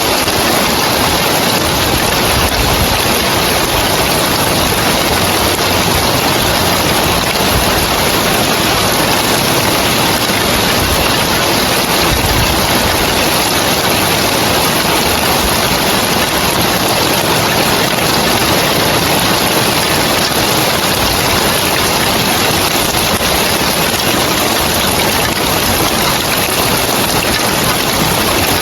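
Rain falling steadily on roof tiles, a dense, even hiss with no let-up.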